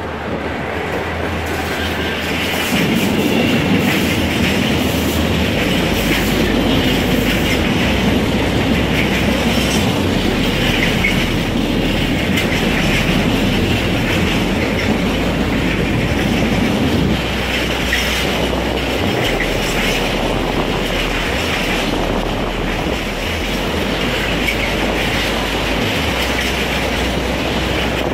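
Freight train of tank wagons rolling past close by: steady rumble and clatter of the wagon wheels on the rails, growing louder about three seconds in.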